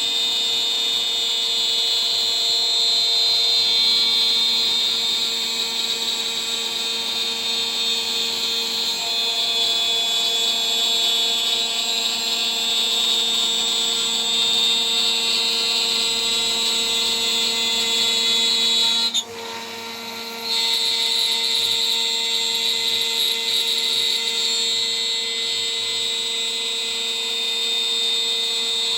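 DIY CNC router's spindle running at high speed with a 3 mm three-flute end mill milling, a steady high whine with the cutting noise on top. About two-thirds of the way through the sound drops off sharply for a second or so, then resumes at full level.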